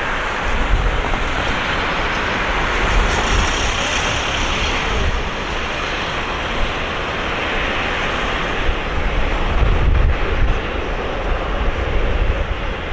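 Steady rumbling roar of a Boeing 777-300ER's GE90 jet engines as the airliner climbs away after takeoff, with wind buffeting the microphone.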